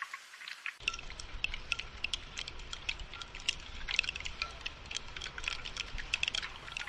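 Rain falling as a dense, irregular patter of drops. About a second in, a low steady rumble of rain joins it.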